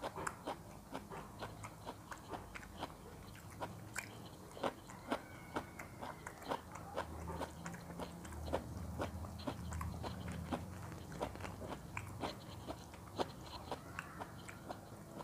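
A person chewing crunchy food close to the microphone: irregular crisp crunches, about two or three a second.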